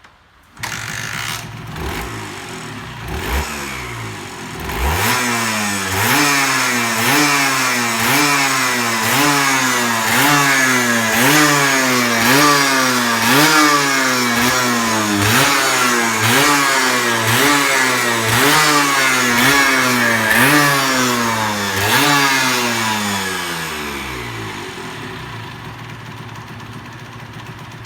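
Honda CRM80's two-stroke single-cylinder engine starting up about half a second in and running unevenly for a few seconds. It is then revved over and over, about one blip a second, the pitch rising and dropping each time. After that it drops back and settles to a quieter idle near the end.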